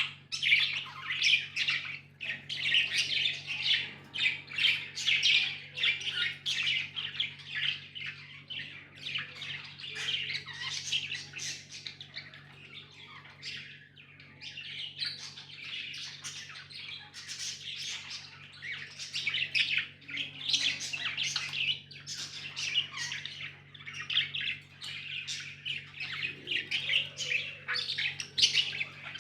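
Pet budgies chattering: a continuous stream of rapid high chirps, warbles and squawks. A steady low hum runs underneath.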